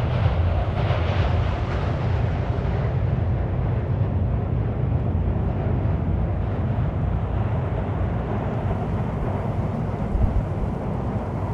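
Strong wind buffeting the camera's microphone: a loud, fluctuating low rumble with a hiss above it that thins out over the first few seconds.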